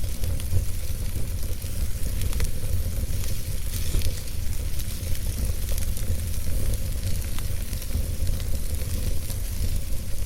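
Wood fire burning in a fireplace: a steady low rumble of flames with a soft hiss and scattered small crackles and pops from the burning logs.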